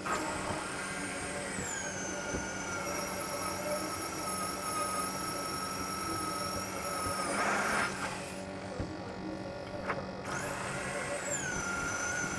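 A handheld electric power tool's motor running with a high whine that drops in pitch about two seconds in and then holds steady. A short harsher rasp comes about seven and a half seconds in. Near ten seconds the whine rises again, then settles lower.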